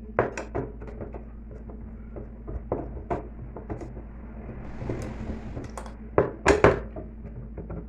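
Clicks, knocks and clatter of tools and metal parts while a top-loading washing machine is taken apart, with a brief hiss about five seconds in and a few louder knocks near the end.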